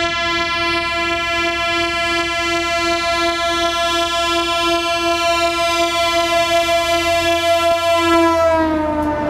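DEMU diesel local train's horn sounding one long steady note over the train's low rumble, its pitch dropping near the end as the train passes.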